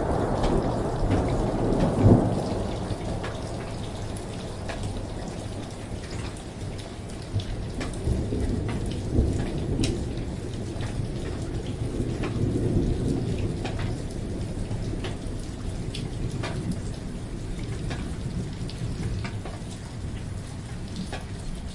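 Steady rain with many small drop impacts, under rolling thunder. The thunder is loudest in the first few seconds, with a sharp crack about two seconds in, then fades to fainter low rumbles.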